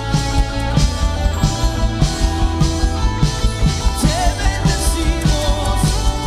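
A band playing a rock-style worship song with a steady drum beat under sustained instruments; a wavering melody line enters about four seconds in.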